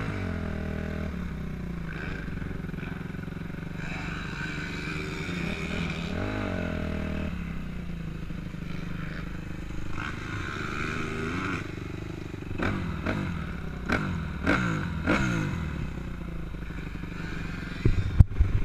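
Suzuki RM-Z 250 four-stroke single-cylinder motocross engine revving up and dropping back again and again, as it is ridden around the track. A few sharp knocks and clatters come near the end.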